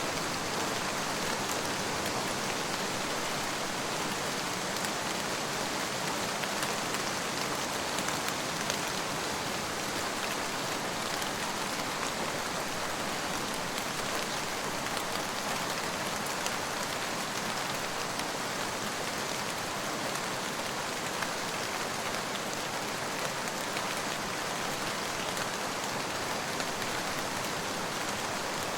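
Steady rain falling, an even hiss sprinkled with the light ticks of individual drops hitting a surface.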